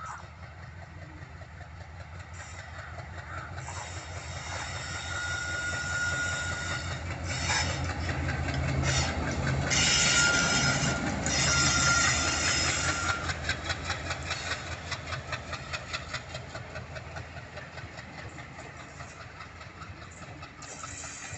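WDM-3A diesel locomotive hauling a passenger train past at speed, its engine drone and rush of noise building to a peak about ten seconds in, with a thin high squeal as it passes. The coaches then roll by with a fast, even clatter of wheels over rail joints that fades away.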